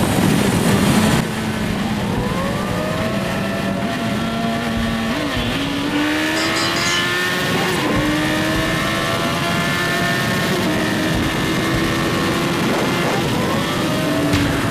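Suzuki Hayabusa GSX1300R's inline-four engine accelerating hard through the gears. Its pitch climbs and shifts at several gear changes, over wind and road noise that is heaviest in the first second.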